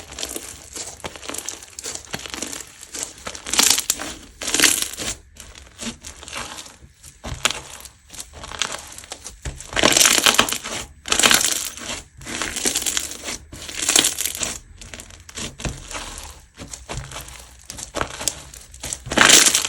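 Hands squeezing and pressing a crunchy-textured slime, giving irregular bursts of crackling crunches.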